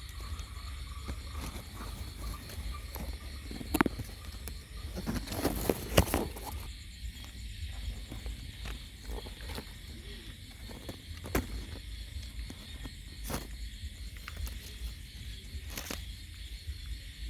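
Night insects calling steadily with a high, finely pulsing chirr, over a low rumble. Scattered clicks and rustles of a hand-held phone are heard, the loudest a little under 4 s in and around 5 to 6 s in.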